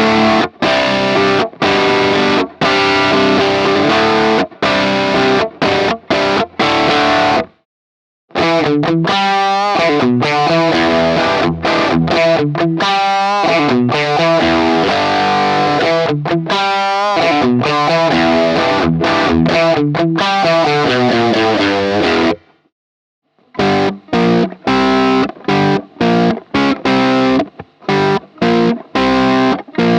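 Electric guitar played through a BSM HS-S treble booster (silicon-transistor, 1967 version) into an amp, giving a distorted, mid-heavy rock tone. It plays riffs in three phrases with brief silent breaks about 8 s and 23 s in. The middle phrase has bent, wavering lead notes.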